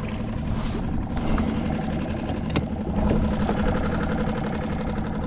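Outboard motor of a small skiff idling steadily, with a few light clicks.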